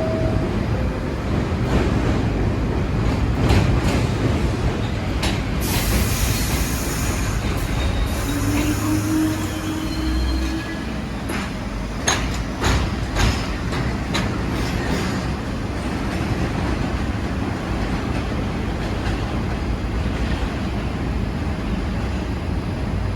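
Subway train running on the tracks: a steady rumble broken by sharp clicks and clacks of wheels over rail joints, with a burst of hiss about six seconds in and a brief steady whine around nine seconds.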